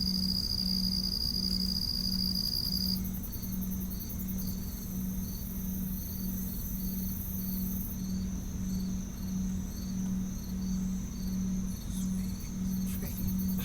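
Crickets and other night insects calling. A continuous high trill stops about three seconds in, leaving regular high chirps at roughly one and a half a second, over a low, evenly pulsing hum.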